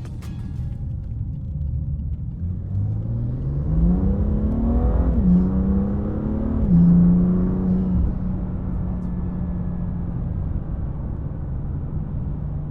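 BMW M2's turbocharged straight-six, fitted with an Akrapovič Evolution titanium exhaust, accelerating hard with the revs climbing. The pitch drops sharply twice at upshifts, then the engine runs steadily at a lower pitch.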